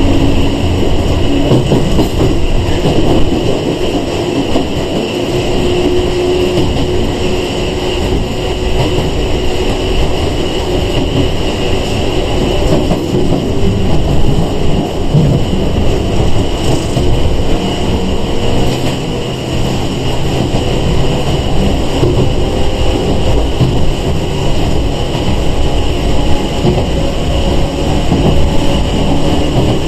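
Interior running noise of a Sangi Railway 101 series (ex-Seibu 401 series) electric train under way, a steady rumble of wheels, motors and rails heard from inside the carriage.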